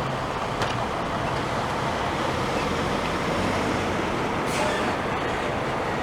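Steady roadside traffic noise: vehicles running and passing on the road, with a low engine hum underneath.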